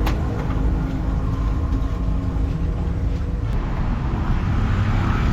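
An engine running steadily with a low hum, and a sharp click at the start and another about three and a half seconds in.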